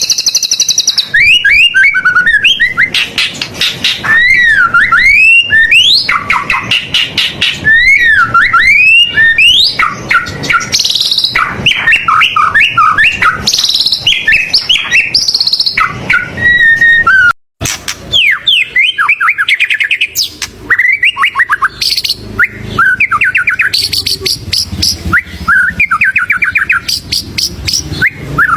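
White-rumped shama (murai batu) singing loudly and continuously: a fast, varied run of whistled swoops, rapid trills and chattering phrases, full of mimicked calls of other birds. The song breaks off for an instant a little past halfway.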